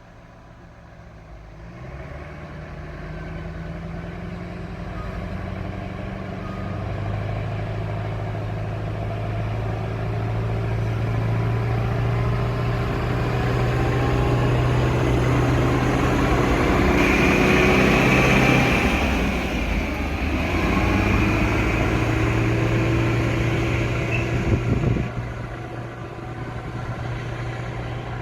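A train approaching and passing close by, with an engine hum under it. The sound builds for about fifteen seconds, is loudest past halfway with a brief high whine, then drops in pitch and fades as the train goes away.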